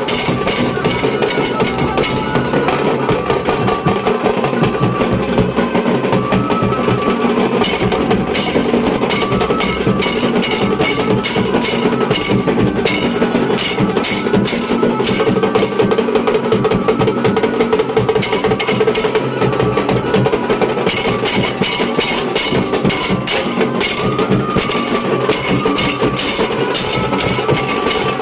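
Nashik dhol ensemble drumming: large barrel dhols and tasha playing a fast, dense, driving rhythm at a loud, steady level.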